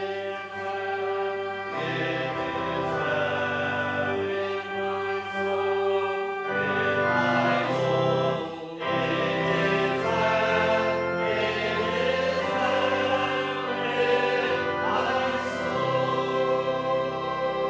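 Church music: a hymn sung by many voices together, with organ accompaniment and long held chords that change every couple of seconds.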